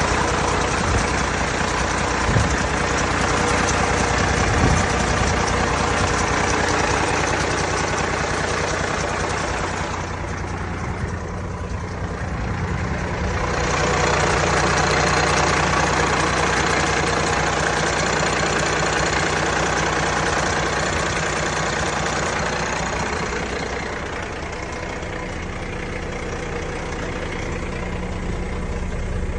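Kenworth T300 dump truck's diesel engine idling steadily, growing softer for a few seconds twice and then coming back up.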